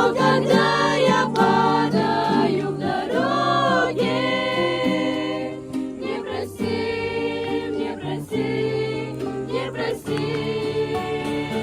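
Several voices singing a Christian song together, the melody rising and falling over held low notes.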